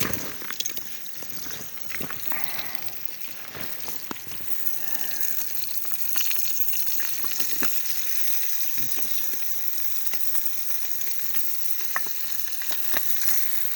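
Rainbow trout sizzling as it cooks over a campfire, a steady frying hiss with scattered pops and crackles, a little louder about halfway through.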